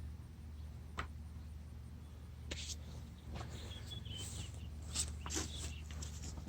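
A few light clicks and knocks, like engine parts and tools being handled, over a steady low hum.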